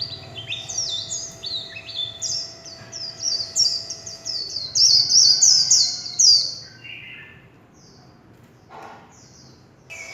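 White-eye singing a fast, high twittering warble of rapid down-slurred notes, the 'líu' song, loudest about five to six seconds in, then trailing off into a few scattered quieter notes.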